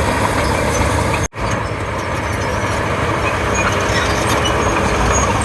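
Komatsu D31P crawler bulldozer working: its diesel engine runs steadily under load, with faint high squeaks over the din. The sound cuts out for an instant about a second in.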